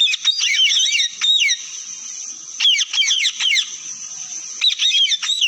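Pet parrot chattering in quick, sharply rising and falling chirps and whistles, in three bursts about a second long.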